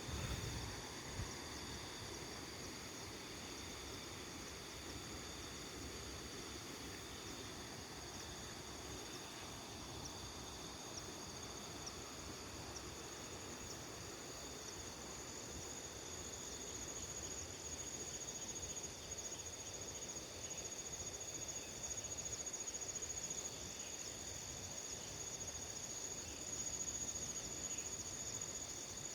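Crickets trilling steadily, several insects at different high pitches at once, growing a little louder in the second half, over a soft low background rush.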